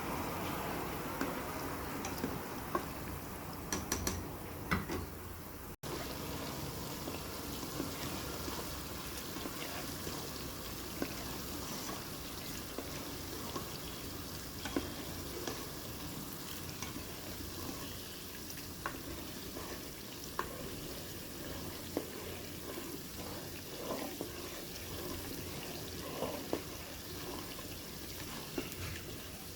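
Food frying in hot oil in a pan: a steady sizzle, with scattered light clicks of a utensil stirring.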